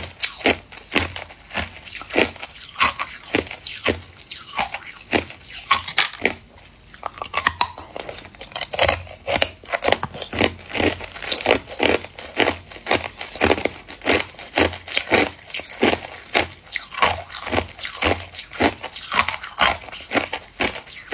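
Hard clear ice being bitten and chewed close to the microphone: a steady run of sharp, crackling crunches about two a second, with a short lull about six seconds in.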